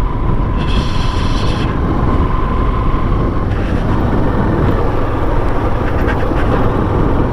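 Motorcycle on the move: steady engine and wind rush on the microphone, with a brief higher-pitched tone about a second in.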